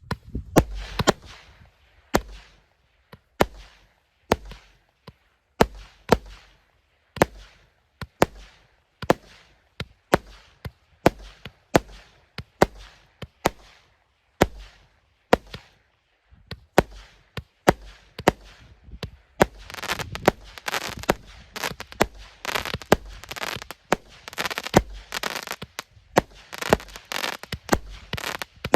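Multi-shot firework battery (a 150-shot cake) firing: sharp bangs about every two-thirds of a second, each trailing off briefly. From about two-thirds of the way in, the shots come faster and denser over a continuous crackle.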